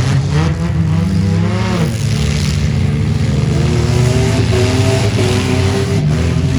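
Mini truck engines running loudly together, with one revving up and dropping back in the first couple of seconds.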